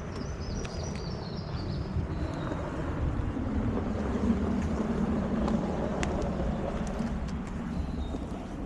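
Wind buffeting the microphone: a steady low rumble that swells in the middle, with faint high chirps in the first couple of seconds.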